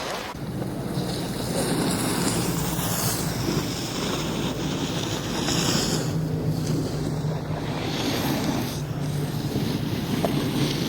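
Wind buffeting the microphone, a steady rushing noise with a low hum underneath.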